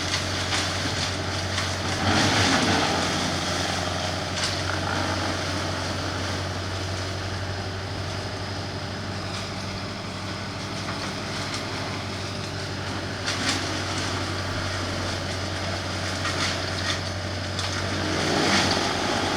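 A crane truck's engine running steadily at a low, even drone, with a few short knocks over it.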